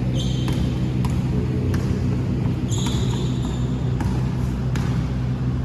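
Basketball bouncing on a hard indoor court, sharp knocks roughly a second apart, with two short high sneaker squeaks, one near the start and one about halfway through, over a steady low hum.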